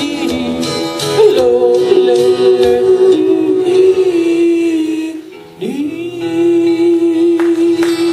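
A man yodeling the wordless closing of a cowboy song over backing music: long held notes broken by sudden leaps in pitch. Just past five seconds in, the voice swoops up into a final long note that ends shortly before the song stops.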